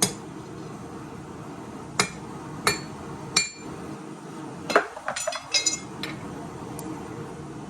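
Metal-on-metal strikes of a forging hammer and steel on an anvil, ringing: single hits spaced a second or two apart, then a quick run of clinks about five seconds in, over a steady background noise.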